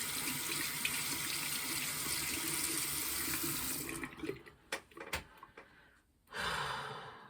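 Water running from a tap into a sink as fingers are rinsed, turned off about four seconds in. A few sharp clicks follow, and a short burst of noise near the end.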